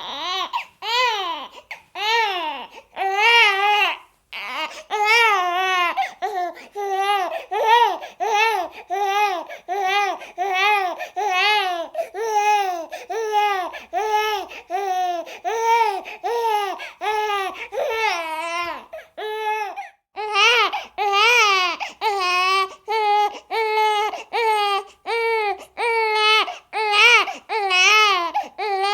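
A baby crying hard in short, rapid wails, about two a second, each one wavering in pitch, with brief pauses for breath about four seconds in and again near the middle.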